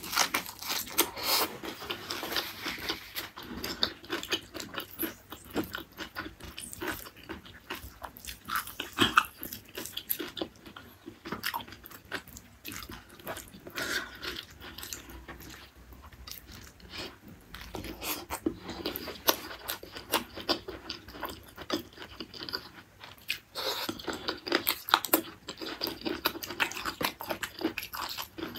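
Close-miked eating sounds: crunchy biting and chewing of raw leafy greens and beef tendon curry, heard as many short, irregular crunches and mouth clicks.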